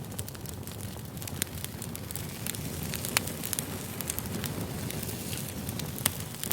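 Wood campfire crackling: a steady low rush of burning with many irregular sharp pops and snaps. The loudest pops come about three and six seconds in.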